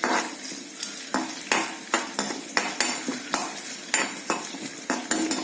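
Ginger and whole spices sizzling in hot coconut oil in a kadai while a spatula stirs, scraping and knocking against the pan about two to three times a second.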